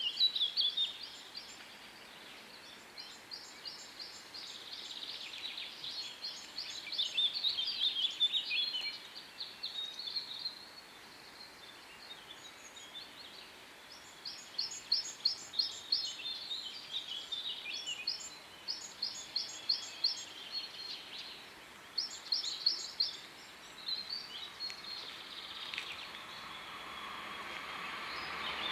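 Songbirds singing in short phrases of rapid notes, repeated every few seconds, over faint outdoor hiss. Near the end a rushing noise starts to swell as an approaching train draws near.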